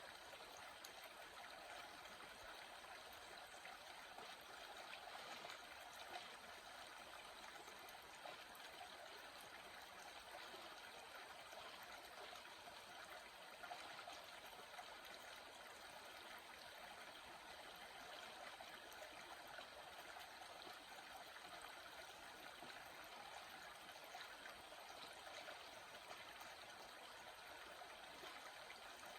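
Small stream flowing steadily and faintly, an even rush of water with small trickling splashes.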